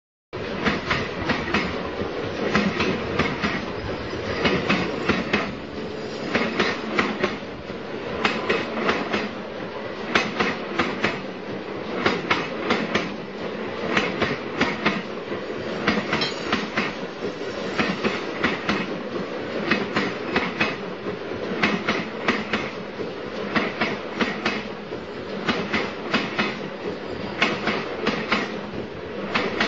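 A train running along the track, its wheels clicking over the rail joints in a steady, repeating clickety-clack over a continuous rumble.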